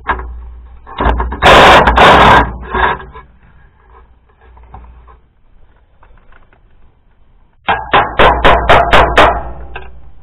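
Metal tool work on a tractor's hydraulic fitting: a loud rattling burst about a second in, then a quick run of about eight sharp, evenly spaced blows near the end.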